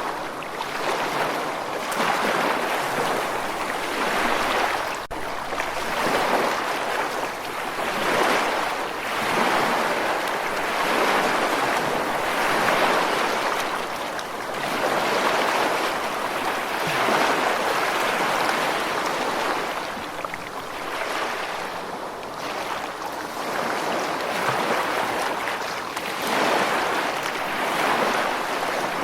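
Ocean waves breaking and washing on a shore, a steady hiss of surf that swells and ebbs every few seconds.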